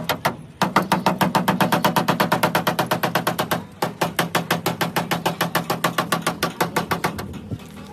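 Rapid, even knocking, about eight strikes a second, with two short pauses, over a steady low hum.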